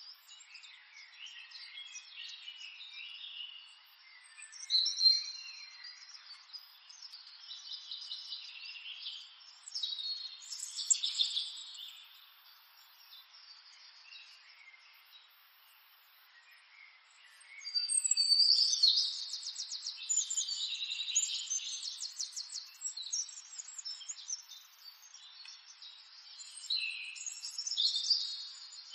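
Small birds chirping and calling in bouts, with quick trills. The busiest stretch comes about two-thirds of the way through, followed by more calls near the end.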